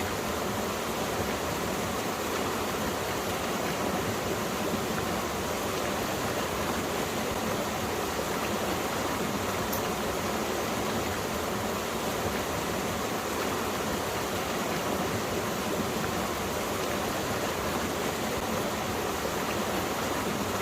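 A mountain stream flowing steadily over rocks, an even rushing of water with no breaks.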